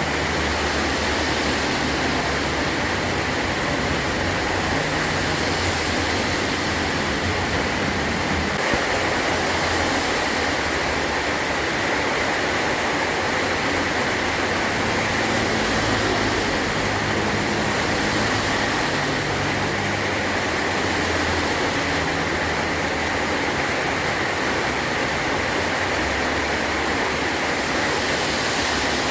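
Heavy rain drumming steadily on a metal tin roof, a dense, even hiss with no breaks.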